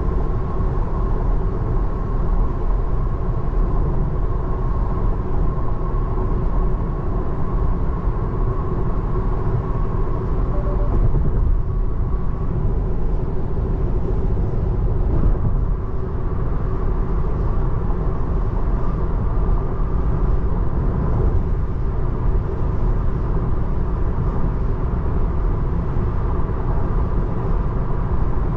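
Steady road and tyre noise inside the cabin of a 2024 Tesla Model 3 at freeway speed on a wet road, a constant low rumble with a faint steady hum above it.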